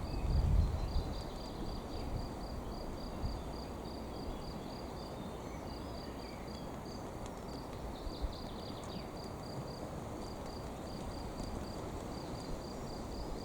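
An insect chirping, a high cricket-like pulse repeating about three times a second, over a steady low rumble.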